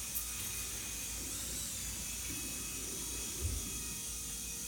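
Steady faint hiss with a few faint, thin steady tones and one soft low thump about three and a half seconds in.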